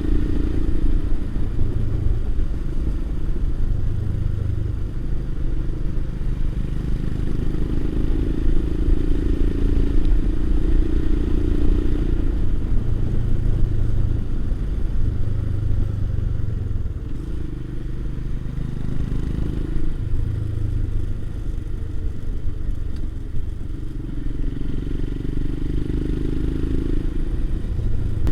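Motorcycle engine running on the move, its pitch rising and falling every few seconds as the throttle and road speed change, over a steady low rumble of riding noise.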